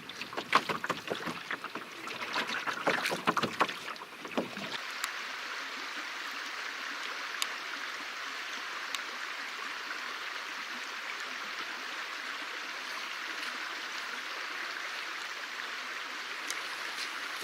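Canoe paddling: irregular splashes and knocks of paddle strokes in the water for about four seconds. Then a sudden change to a steady, even hiss of water.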